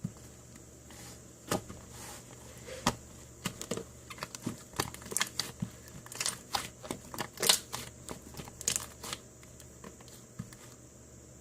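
Slime being squeezed and pressed by hand, giving irregular sticky clicks and small pops, sparse at first and coming thick and fast in the middle.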